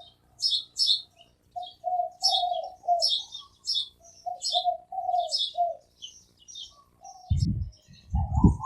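Spotted dove cooing a run of short, low coos in repeated series, with small birds chirping high above it throughout. A low rumble comes in near the end.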